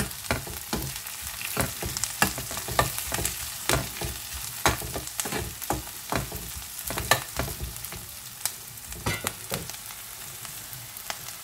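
Chopped onions and whole spices sizzling in hot ghee in a stainless steel pot, with irregular clicks and scrapes of a spoon stirring against the pot. The stirring thins out and stops about ten seconds in, leaving the steady sizzle.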